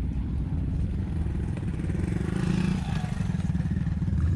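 A motor vehicle engine running steadily with a low rumble, swelling louder for a moment about two and a half seconds in.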